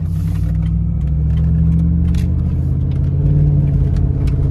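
Pickup truck's loud aftermarket exhaust giving a steady low drone while driving, heard from inside the cab, getting slightly louder about three seconds in.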